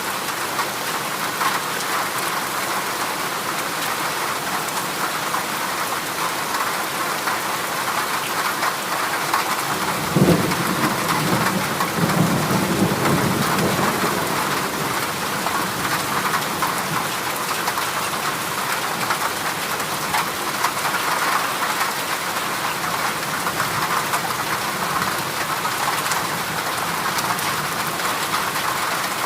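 Heavy rain drumming steadily on a corrugated zinc sheet roof. A low roll of thunder comes in about ten seconds in and fades over a few seconds.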